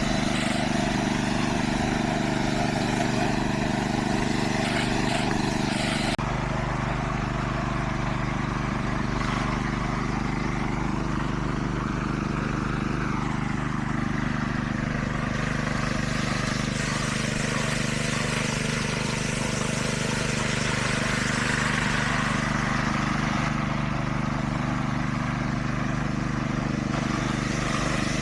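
Heavy diesel engine of construction machinery running steadily at a constant speed, with an abrupt change in the sound about six seconds in.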